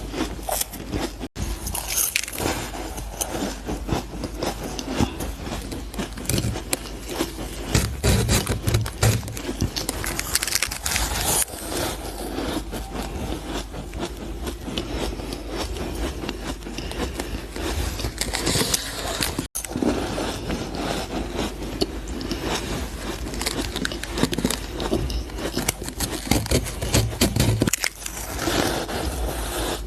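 Close-miked biting and chewing of frozen ice and powdery freezer frost: a dense, continuous run of crisp crunches and crackles, cut off for an instant twice.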